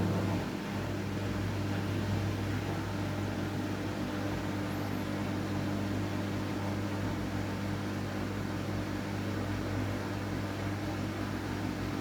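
Washing machine running with blankets inside: a steady motor hum over an even whooshing noise, dipping slightly about half a second in.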